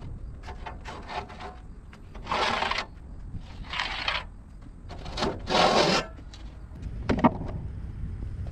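A few separate scraping or rubbing strokes, each about half a second long, with a sharp click near the end, over a low steady background rumble.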